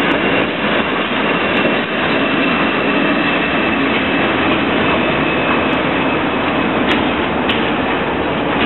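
SBB Ae 6/6 electric locomotive hauling a freight train of sugar-beet wagons past at close range: a loud, steady running noise of the locomotive and its wheels on the rails.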